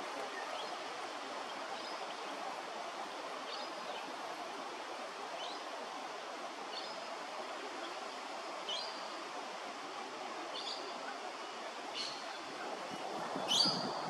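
A bird chirping with short high notes about once a second, with a louder, higher call near the end, over a steady rushing background noise.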